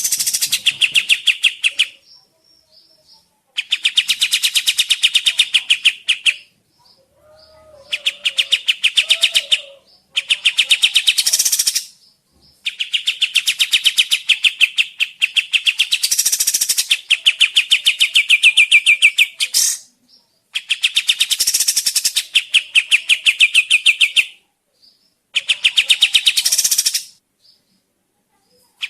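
Burung Kapas Tembak bulbul song: fast, loud trills of rapidly repeated notes in bouts of two to three seconds, with one unbroken run of about seven seconds in the middle, separated by short pauses. This is a recorded song played as a lure to make other birds of the kind answer.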